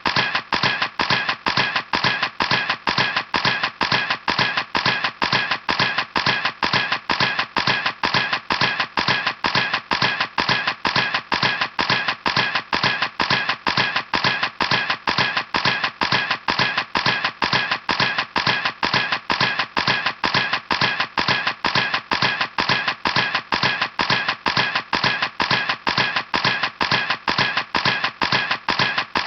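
Camera shutter firing in a steady, rapid series, about three even clicks a second.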